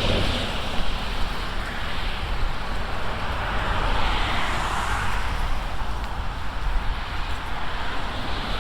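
Road traffic going by, the tyre noise of passing cars swelling and fading every few seconds. Under it runs a steady low rumble of wind on the microphone.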